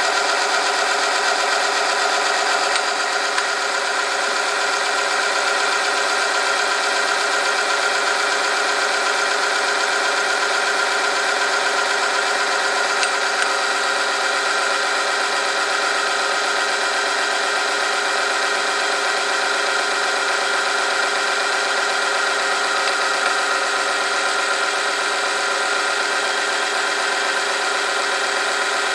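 Oil-film friction test machine running: its motor turns the rotating part against a test sample lubricated with hot 5W30 oil, giving a steady whine with a rattle.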